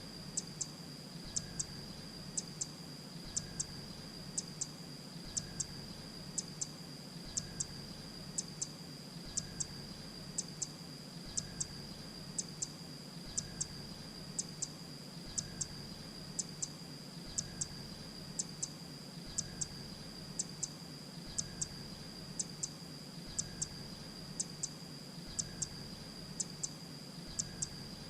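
Grey-breasted prinia call repeating at even spacing: a pair of sharp, very high chips about once a second, over a steady high-pitched tone.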